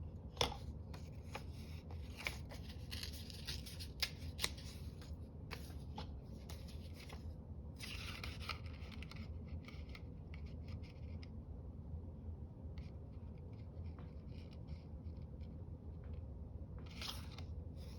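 Scissors snipping through paper in intermittent spells, with small clicks and rustles of paper being handled, over a steady low hum.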